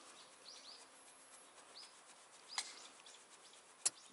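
A few faint, short chirps of a bird over quiet outdoor ambience, with two sharp clicks, one about two and a half seconds in and a louder one near the end.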